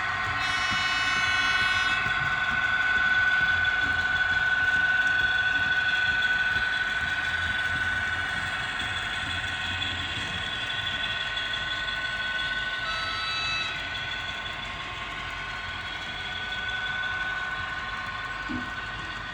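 Model trains running on a layout, their small electric drives giving a steady high whine over a low rumble. A short high pitched tone sounds near the start, and a briefer one about thirteen seconds in.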